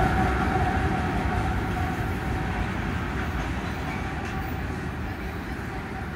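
CSX freight train rumbling away, a diesel locomotive and the wheels on the rails fading steadily as it recedes.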